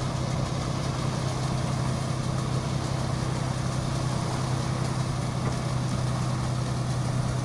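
Crane's engine running steadily with a constant low hum.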